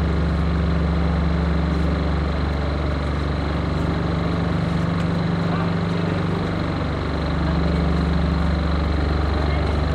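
Steady, loud low engine drone with a fine, even pulsing, holding the same pitch and level throughout with only a small dip in the low end in the middle.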